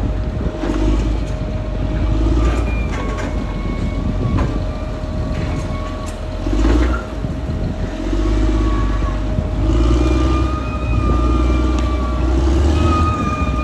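Caterpillar D6R XL bulldozer working: its diesel engine runs loud and swells and eases with the load several times. Scattered sharp clanks and thin high squeals come and go over the engine.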